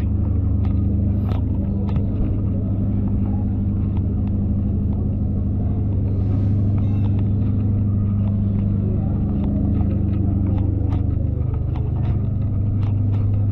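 Car engine idling steadily close by, a deep even rumble that holds one pitch, with a few faint clicks over it.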